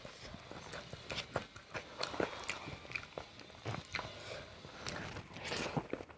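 Close-up eating sounds: a person biting and chewing crisp food, with many irregular crunches and mouth clicks.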